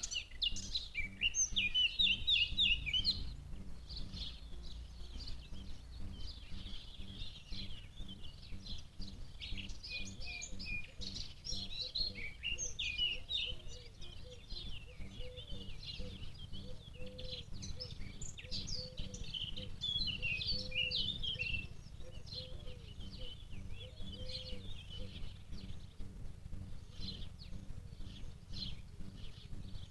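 Small birds chirping in quick, repeated calls throughout, over a steady low background rumble.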